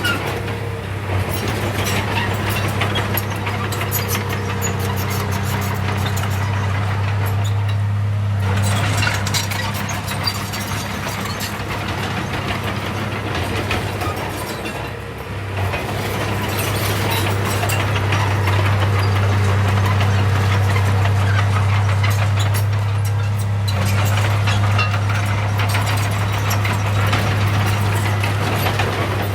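Heavy earthmoving machine's diesel engine running steadily under load, with metallic rattling over it. The engine note eases briefly about eight seconds in and again about fifteen seconds in, then comes back stronger.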